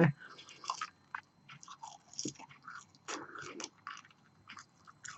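A person chewing French fries close to the microphone: a string of soft, irregular mouth clicks and small crunches.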